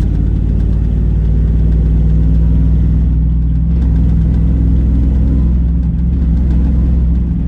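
The truck's 8.1-litre gasoline V8 running steadily under way, a deep, even engine drone.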